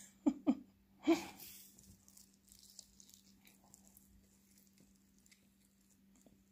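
A person bites into an air-fried buffalo chicken wing about a second in, after two short murmurs, then chews quietly with faint scattered mouth clicks. A steady low hum runs underneath.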